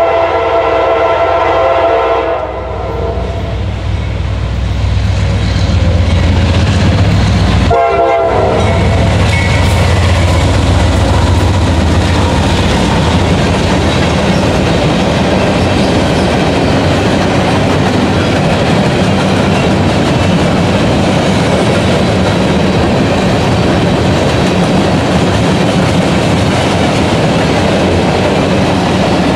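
Nathan K5LA five-chime air horn on a CSX C40-8W locomotive sounding a blast that ends about two and a half seconds in, with a short note about eight seconds in. The GE diesel locomotives then pass close with a deep engine rumble, followed by the steady rolling clatter of empty covered hopper cars.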